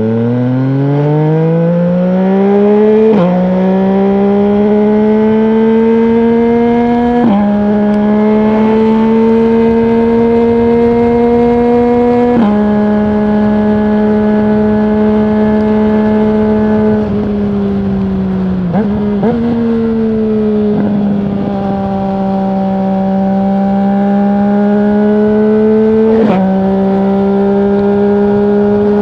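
2020 Yamaha MT-09's 847 cc crossplane three-cylinder engine through a full Akrapovic exhaust with no dB killer, pulling away with a steeply rising note. It then runs at fairly steady revs, the note breaking briefly at each of several gear changes, and eases off for a moment past the halfway point.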